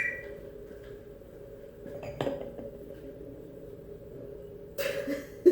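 A sharp clink about two seconds in, then a brief clatter and another knock near the end, like hard objects such as crockery being handled, over a steady low hum.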